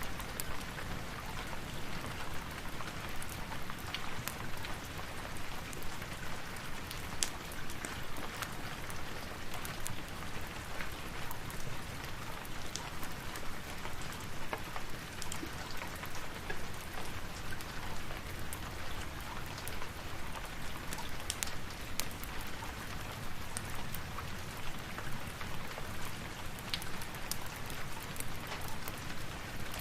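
Steady rain falling, with scattered small sharp crackles of a fireplace mixed in.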